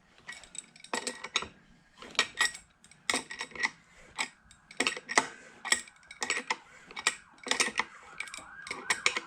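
Metal tool clicks and ticks, coming irregularly one to three times a second, as a flywheel puller is threaded into a scooter engine's flywheel.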